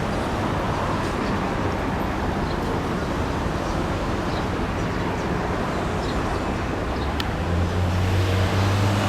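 Train running, a steady rumble and rushing noise, with a low hum coming in near the end.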